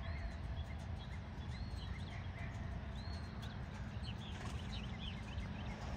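Purple martins calling overhead: a scatter of short, curving chirps, several of them bunched together a little past the middle, over a steady low rumble.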